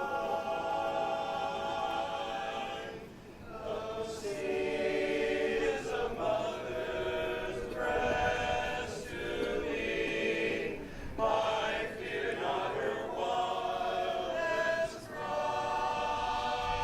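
Choir singing a slow song in long held chords, pausing briefly about three seconds in and again near the end.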